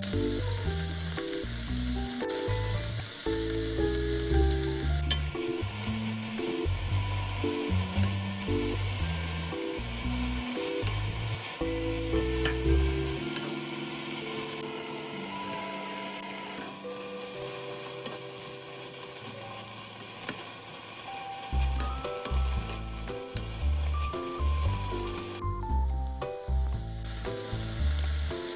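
Shredded cabbage sizzling as it is stir-fried in a pan, turned over with a wooden spoon. A light melodic background tune plays alongside, and the sizzle breaks off briefly near the end.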